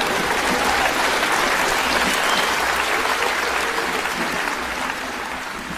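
Theatre audience applauding after a punchline, the clapping dying down near the end.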